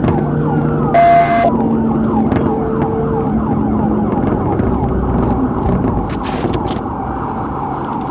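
Police siren on a fast yelp, its pitch sweeping up and down several times a second, over a steady vehicle hum. A short steady tone with a hiss sounds about a second in.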